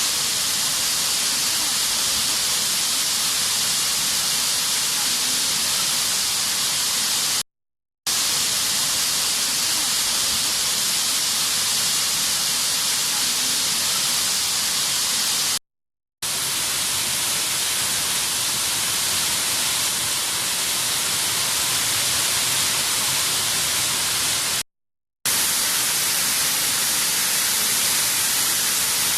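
Hinterland waterfall running in full flow after cyclone rain: a steady, hissing rush of falling water. It breaks off into silence for a moment three times, about every eight seconds.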